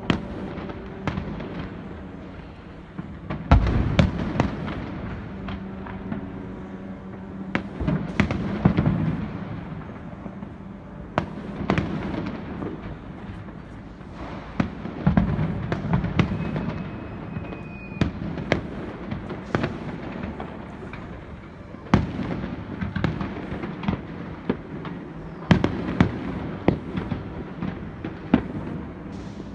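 Fireworks display: irregular sharp bangs of bursting shells over continuous crackling. The heaviest clusters of bangs come a few seconds in, around the middle, and again later on.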